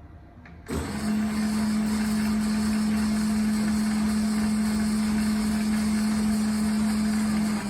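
Clausing 4901 metal lathe's motor and drivetrain on a first test run after reassembly: it switches on abruptly under a second in and runs with a steady hum, then is switched off near the end and starts to wind down.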